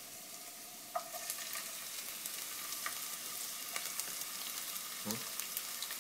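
Chopped onion and garlic sizzling in hot oil in a nonstick wok, a steady hiss with fine crackling. A brief knock comes about a second in, and the sizzle grows a little louder after it.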